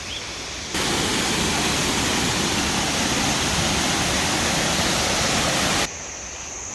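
Waterfall water rushing, a loud, steady roar that starts and stops abruptly about a second in and a second before the end. Before and after it, a quieter steady hiss of water with a high, even insect drone.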